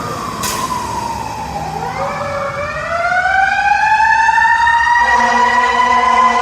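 Emergency vehicle siren wailing loud. Its pitch falls over the first two seconds, then climbs slowly again, and a steady lower tone joins about five seconds in.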